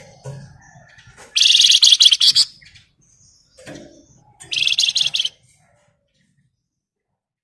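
Flamboyan songbird singing in the rapid, dense rattling style keepers call 'ngebren': two loud, high-pitched rattling trills about a second long each, with softer chirps between.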